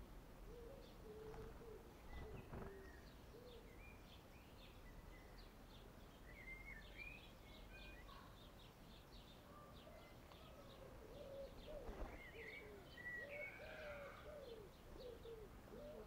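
Faint garden birdsong: many short high chirps and twitters from small birds, with lower arching call notes that come more often in the second half. Two brief knocks, about two and a half and twelve seconds in, the second the loudest sound.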